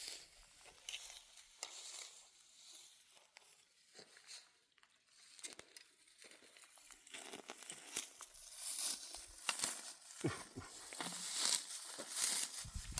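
Dry barley stalks crackling, rustling and tearing as handfuls are pulled up by hand, sparse at first and becoming denser and louder in the second half.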